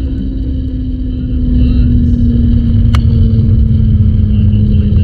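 Zipline trolley running along the steel cable with a steady whirring hum that slowly falls in pitch, over heavy wind rumble on the microphone; it gets louder about a second and a half in, and there is a single sharp click about three seconds in.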